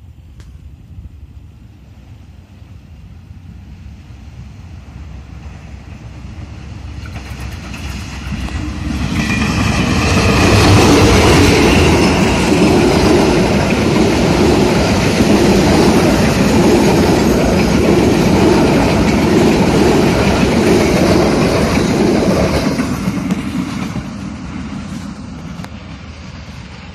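Passenger train hauled by a CC 201 diesel-electric locomotive passing close by. It grows louder over several seconds, runs loud for about twelve seconds with the coaches' wheels beating rhythmically on the rails, then fades as it moves away.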